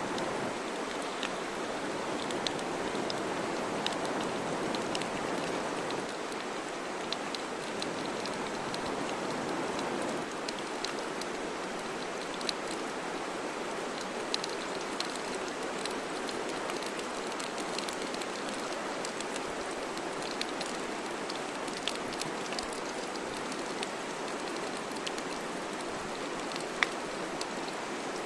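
Campfire burning, a steady hiss with sharp, irregular crackles and pops, one louder pop near the end.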